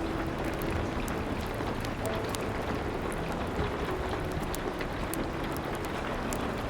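Steady rain with scattered sharp crackles of a wood fire. Faint, soft held piano notes sit low underneath.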